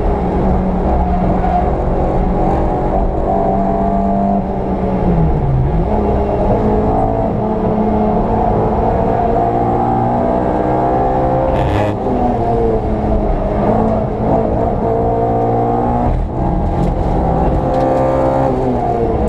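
VW Polo 86C's petrol engine being driven hard on a lap, its pitch climbing and dropping again and again through the gears. A brief sharp noise about twelve seconds in.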